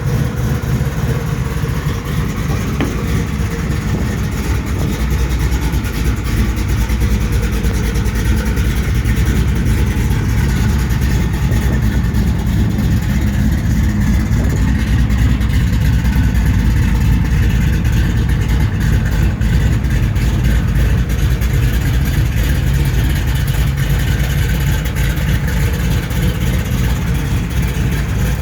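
Built 400 cubic-inch small-block V8 in a 1989 GMC truck, running steadily at idle with a deep, even rumble.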